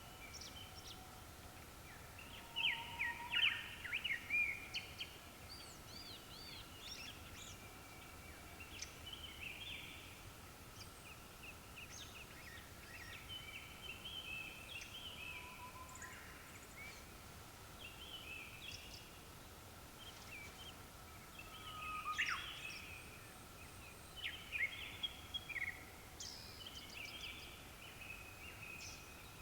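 Japanese thrushes singing: a run of short, varied whistled and warbled phrases, several birds overlapping, loudest about three seconds in and again after about twenty seconds. A faint steady high tone runs underneath.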